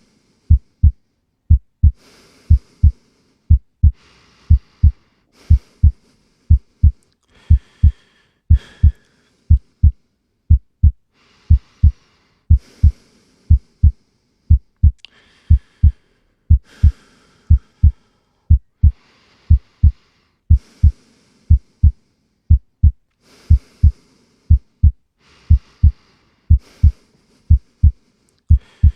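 A steady heartbeat, each beat a loud, low double thump repeating at an even pace, with a faint breathy hiss between beats.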